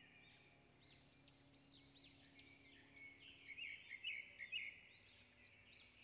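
Faint birdsong: repeated high arching chirps, with a quick run of sharper, louder chirps about halfway through.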